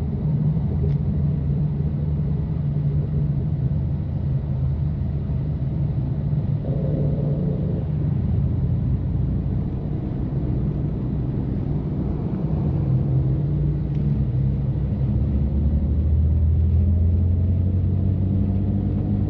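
BMW F80 M3's twin-turbo straight-six with catless downpipes and an open-valved exhaust, droning steadily at cruise with a low rumble, its pitch rising gently near the end as it picks up speed.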